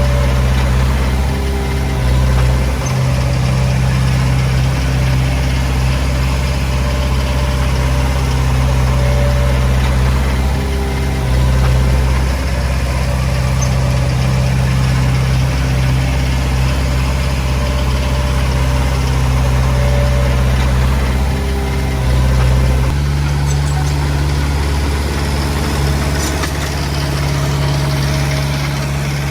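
Komatsu D20P bulldozer's diesel engine running steadily at a low, even speed, with a change in the engine note about 23 seconds in.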